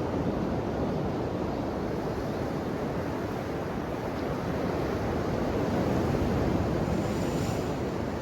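Ocean waves washing on the shore, a steady rushing wash that swells a little about two-thirds of the way through.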